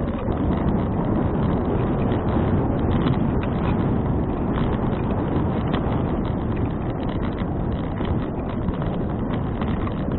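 Steady wind noise rushing over an action camera's microphone while cycling along a road.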